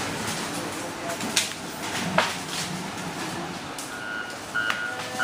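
A truck's reversing alarm beeping at one steady pitch starts about four seconds in. Before it there is general outdoor noise with a couple of sharp knocks.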